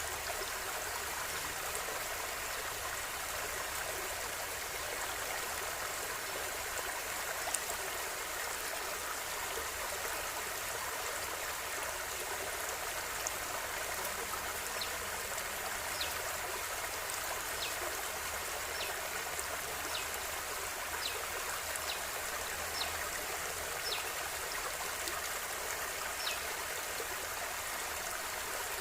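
River water flowing with a steady rush. In the second half, faint short ticks come about once a second over the rush.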